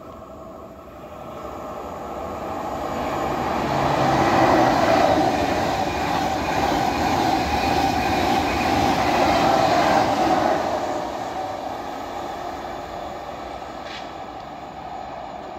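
Thalys high-speed train passing at speed: the rush and rumble of the train build over the first few seconds, stay loud for about six seconds as the cars go by, then fade away.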